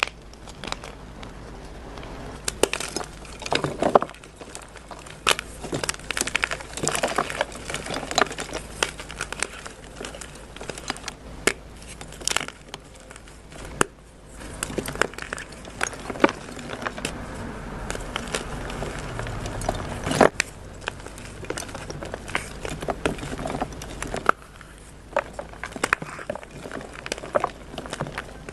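Crunchy dyed gym chalk being crushed and crumbled: a dense, irregular run of crunches and crackles with sharp snaps, briefly pausing about halfway through.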